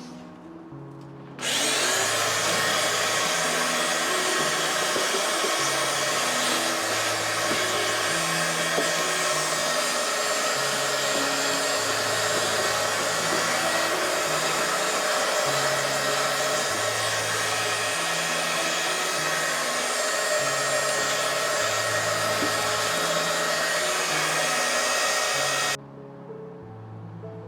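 A loud, steady rushing noise, like a blower or air tool running, switches on about a second and a half in and cuts off suddenly near the end. Background music with a repeating bass line plays throughout.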